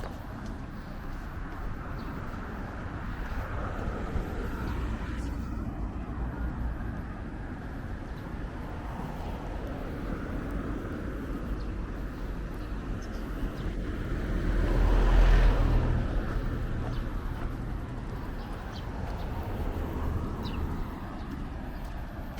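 Street ambience with a steady low traffic rumble. A vehicle passes close by about two-thirds of the way through, getting louder to a peak and then fading.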